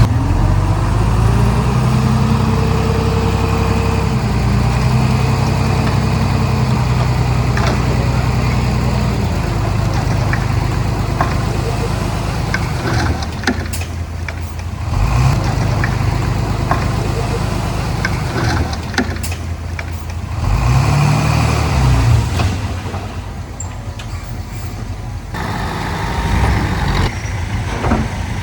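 Komatsu D31P bulldozer's diesel engine running under varying load, its pitch rising and falling several times as it works, with scattered sharp clanks.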